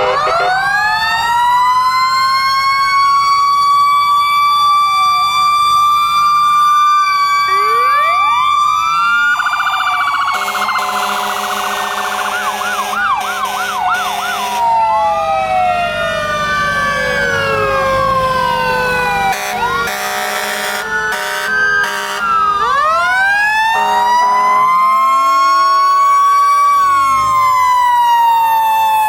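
Several fire trucks' sirens going at once: wailing sirens winding up and falling away in overlapping glides, with a fast warbling stretch partway through. Air horns blast in long bursts about a third of the way in and again past the middle.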